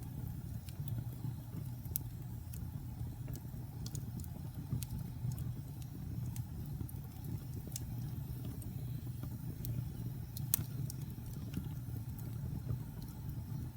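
Wood fire burning in a fireplace: a steady low rumble of flames with scattered sharp crackles and pops, one louder pop late on.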